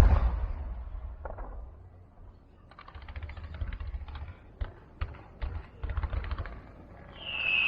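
A sharp bang, then a few seconds of rapid, irregular crackling pops, typical of firecrackers set off at a temple procession. Near the end a high steady buzz starts up.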